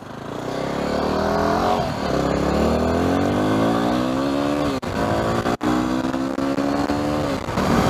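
Yamaha WR250R's 250 cc single-cylinder four-stroke engine accelerating from a pull-out, climbing in revs through the gears. The pitch drops back at shifts about two seconds in and about five seconds in.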